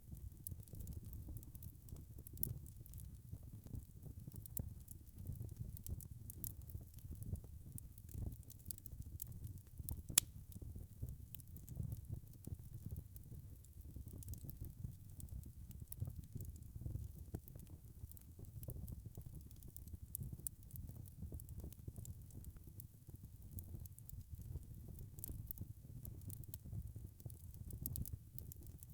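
Wood fire burning in a fireplace: a low, steady rumble of flames with frequent small crackles, and one louder pop about ten seconds in.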